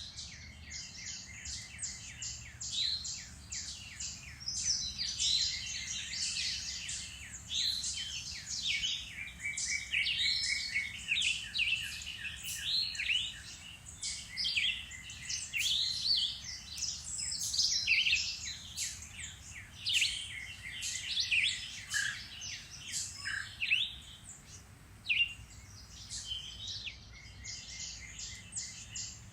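Several songbirds in woodland singing and calling over one another: a dense, unbroken mix of rapid trills and short chirps.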